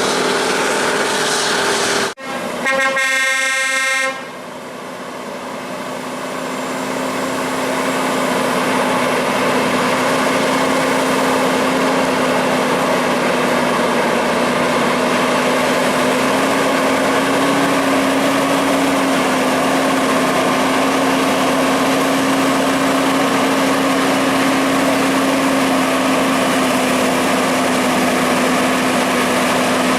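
A vehicle horn, most likely a truck's air horn, sounds for about two seconds just after a sudden break in the sound. Steady heavy engine running follows, growing louder over the next few seconds.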